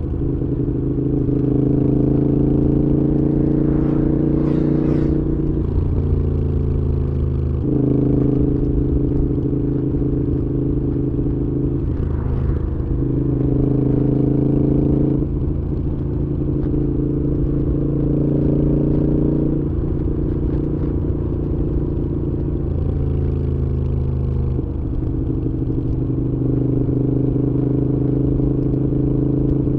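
Moto Guzzi V7's air-cooled transverse V-twin running through a Mistral aftermarket exhaust on the move. It holds a steady pitch for a few seconds at a time, and the engine speed shifts up and down several times.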